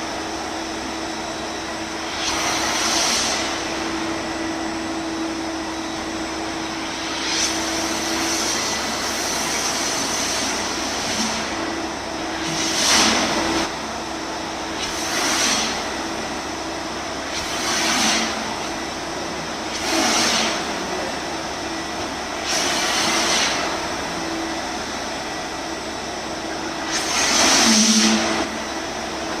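Wet-and-dry vacuum cleaner running steadily with a low hum. A brighter hiss of rushing air swells for a second or so every few seconds.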